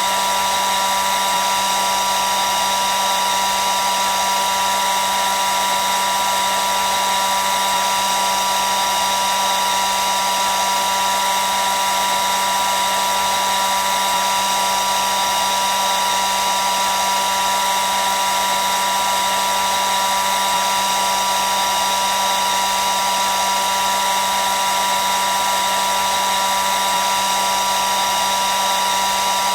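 Hair dryer running steadily: an even, unchanging airy hiss with a steady whine.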